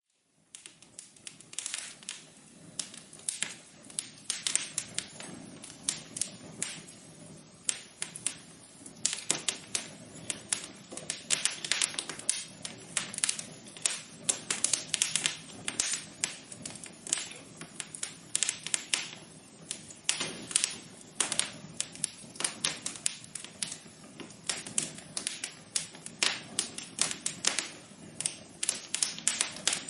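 Wood fire in a fireplace crackling: dense, irregular snaps and pops over a soft, steady low hiss of burning.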